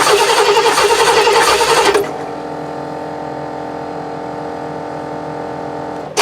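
Starter cranking the Oldsmobile 455 V8 without it firing, for about two seconds, with a fast even pulsing as each cylinder comes up on compression: a compression test with a gauge in a spark plug hole. After the cranking stops, a steady hum from the air pump carries on, and cranking starts again at the very end.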